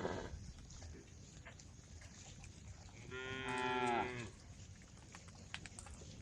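A cow mooing once, about three seconds in: one call of a little over a second whose pitch drops at the end. The tail of an earlier moo fades right at the start, and faint clicks are heard between the calls.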